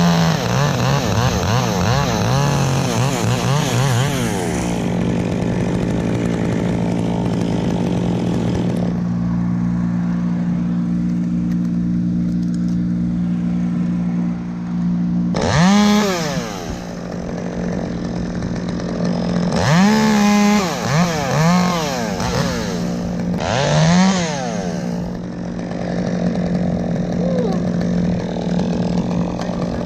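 Petrol chainsaw idling and revved up in short bursts, its pitch climbing and falling back each time: once at the start, then several times in the second half.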